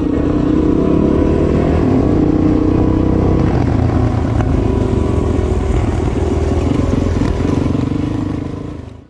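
Dirt bike engine running, its pitch rising and falling a little with the throttle, fading out near the end.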